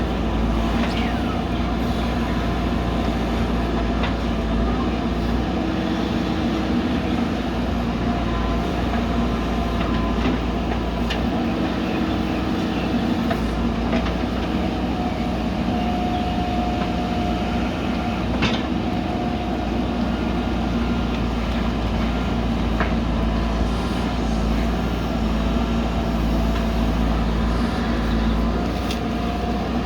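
JCB backhoe loader's diesel engine running steadily under working load, with scattered sharp clanks and a short whine about halfway through.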